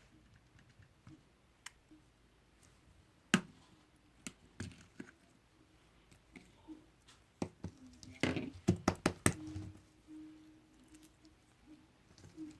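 Slime being handled by hand: scattered sharp clicks and small knocks, with one loud click about three seconds in and a quick run of louder clicks and knocks around eight to nine seconds in.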